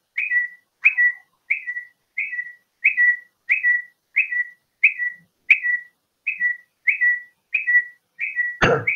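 A bird repeating a short high chirp that dips slightly in pitch, very evenly, about one and a half times a second. A brief louder noise breaks in near the end.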